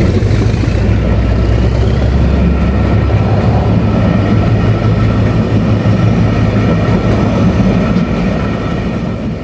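Network Rail P.L.P.R. test train passing close by: a loud, steady rumble of train running on the rails, with a few steady tones over it, easing off near the end.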